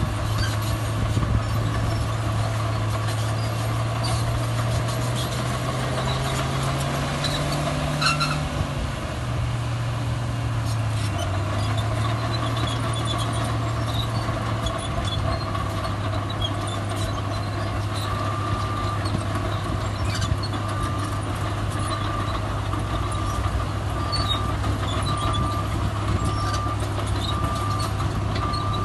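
Heavy diesel earthmoving machinery running steadily: the engine revs up about six seconds in and drops back after a knock around eight seconds. From about eighteen seconds in, a reversing alarm beeps regularly, about once every second and a half.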